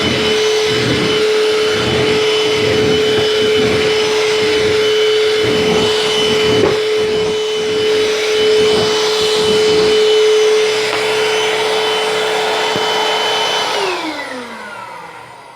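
Eureka Superlite vacuum cleaner running with a steady high whine. For the first ten seconds or so its sound pulses rhythmically as it is pushed back and forth over the floor. Near the end it is switched off and the whine falls in pitch as the motor winds down.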